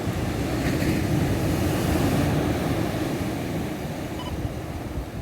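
Atlantic surf rumbling and breaking on the shore, with wind on the microphone. A faint short double beep from a camera sounds a little after four seconds in.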